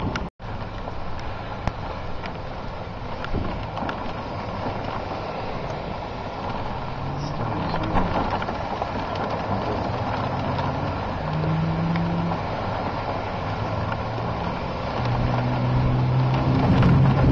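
Car driving, heard from inside the cabin: steady road and wind noise, with the engine's note climbing and shifting in steps through the second half and loudest near the end. The sound drops out for a split second just after the start.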